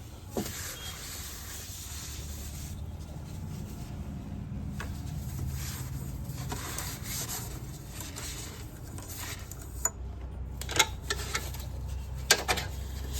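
Hand rummaging through and scraping out dry debris (paper and plastic nesting material left by rats) in a car's cowl water-collection chamber: irregular rustling and scratching, with a few sharp clicks near the end over a low steady hum.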